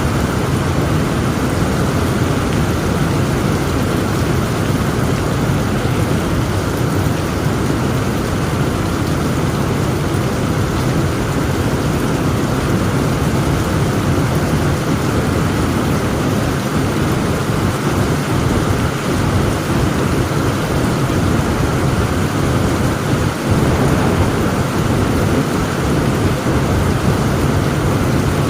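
Heavy rain falling steadily, with a deep, continuous rumble of thunder beneath it.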